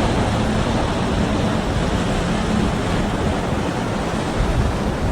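Steady wash of wind on the microphone and surf from the inlet, with a faint low hum of boat engines underneath.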